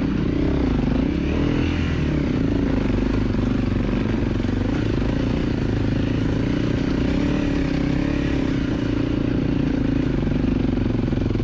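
A 250 cc dirt bike engine running steadily, its note wavering gently up and down with the throttle.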